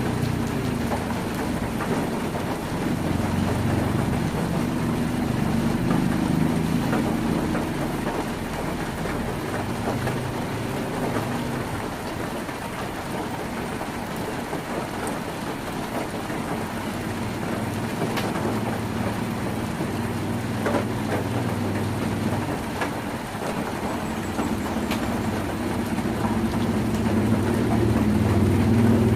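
Heavy rain on a tin roof: a steady, dense patter with scattered sharper drop ticks, over a low rumble that swells near the end.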